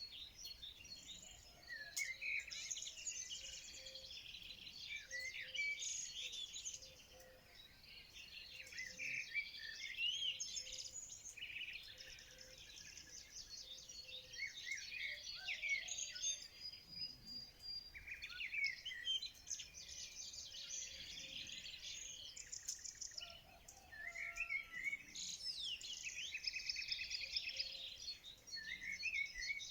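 Many songbirds singing and chirping together, overlapping quick chirps and rapid trills in a steady dawn-chorus-like mix.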